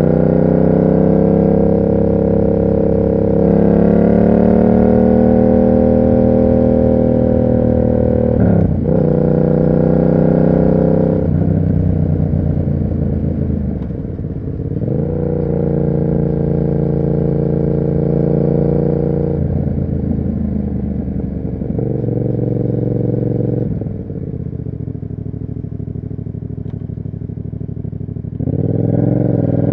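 Yamaha MT-07's parallel-twin engine through an SC Project aftermarket exhaust, running under way. The revs climb, then break and drop several times as it shifts gears. It eases off to a quieter, lower note a little past the middle, then opens up again loudly near the end.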